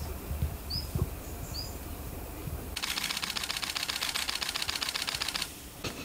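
A small bird calling in the tree with a few thin, rising chirps. About three seconds in, a dry, rapid rattle of clicks starts and lasts nearly three seconds.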